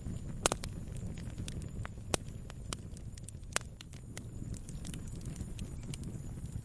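Campfire burning with a low steady rumble and irregular sharp crackles and pops, a few louder snaps standing out.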